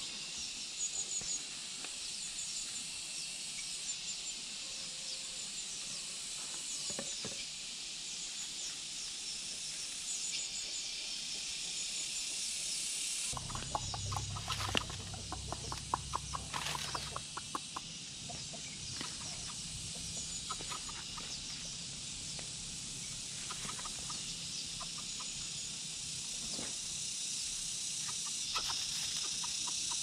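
Short clucking bird calls over a steady, high, ticking insect chorus. A little before halfway a rapid run of close calls starts and then thins out.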